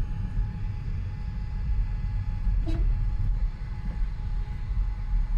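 Steady low rumble of a vehicle or traffic, with one short beep about three seconds in.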